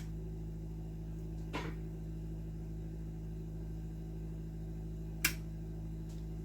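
Two clicks of the controller box's power switch being flipped, a softer one a second and a half in and a sharper one about five seconds in, over a steady electrical hum. The switch works backwards, off where it should read on.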